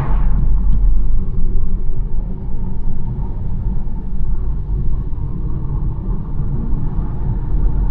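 BMW 1 Series on the move: a steady deep rumble of tyres and engine on a country road, with a faint hum from the engine through the middle and a brief whoosh right at the start.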